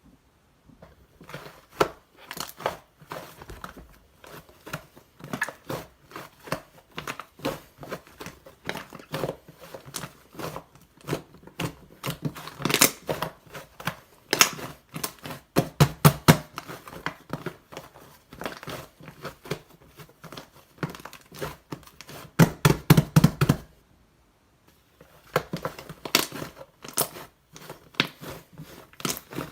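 White liquid-type slime being squeezed and poked by hand, giving rapid sticky pops and crackles, with a brief pause a little before the end.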